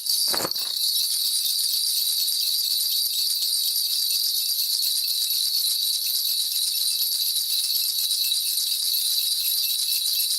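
A Korean shaman's ritual bell cluster (bangul) being shaken steadily, a continuous bright jingle that holds even throughout, used in a shamanic divination. There is a brief low knock just after the start.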